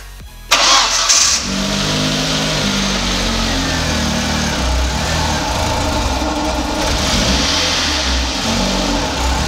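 Turbocharged Audi A4 1.8T four-cylinder engine catching about half a second in, flaring briefly, then settling into an uneven idle that wavers up and down. This is the hunting idle the owner is chasing, which he suspects comes from a misaligned drive-by-wire throttle body.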